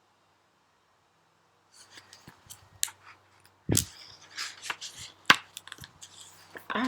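Handling of a hardcover picture book: a run of light clicks and rustles with two sharper knocks, the first with a low thud, after a short silence.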